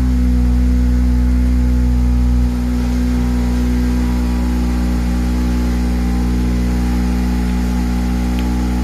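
Honda Civic Type R engine idling steadily just after its first start-up, running through a freshly fitted rear silencer on temporary gaskets. The idle drops slightly in level about two and a half seconds in.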